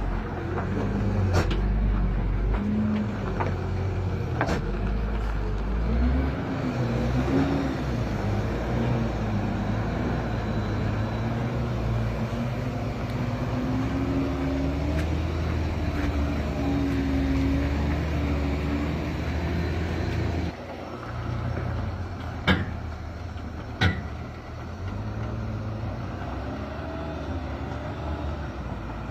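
Heavy truck engine running, its pitch rising and falling as the revs change. It gets quieter about two-thirds of the way through. A few sharp knocks stand out, two loud ones near the end.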